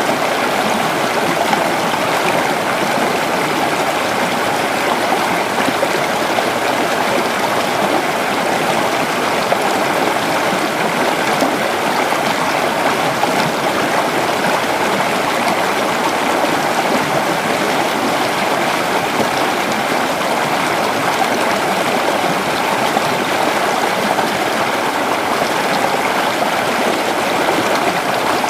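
A creek or small river flowing steadily: a continuous rush of running water, even and unbroken.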